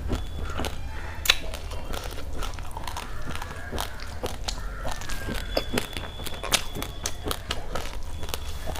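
Raw rice grains being chewed close to the microphone: an irregular run of sharp crunches and cracks, with a louder crack about a second in and another near six and a half seconds, over a low steady hum.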